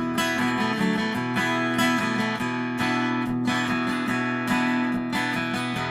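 Acoustic guitar strummed in a steady rhythm, played as the instrumental fill between sung lines of a country-style song.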